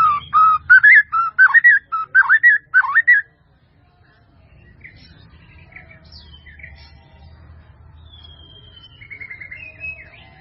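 A bird singing a loud run of quick warbled notes for about three seconds, then fainter scattered chirps, a drawn-out falling whistle and a short trill near the end.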